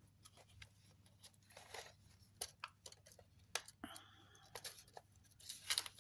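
Quiet handling of paper and card: soft rustles with scattered light clicks and taps as journal pages, cards and inserts are moved.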